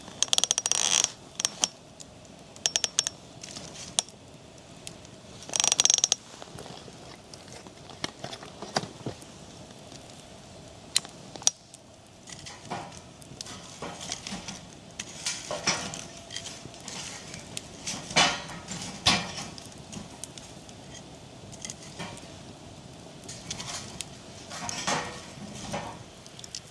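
Irregular clicks, knocks and short scraping noises of objects being handled, moved and set down.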